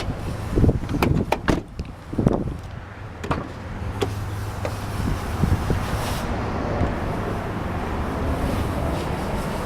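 Car door handling as someone gets out of the car: a quick run of clicks and clunks in the first two and a half seconds, a few more knocks a second or two later, then a steady low rumble.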